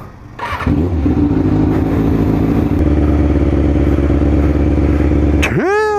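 A 2003 Kawasaki ZX-6R 636's inline-four engine starts about a second in and then idles steadily. A short, sharply rising cry cuts in near the end.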